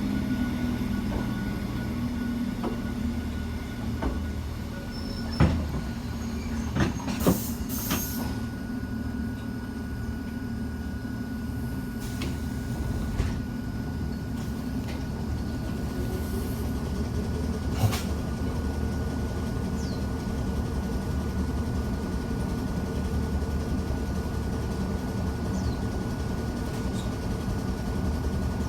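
Hakone Tozan Railway mountain train running with a steady low rumble, broken by several sharp clicks and knocks. A steady high tone joins about eight seconds in.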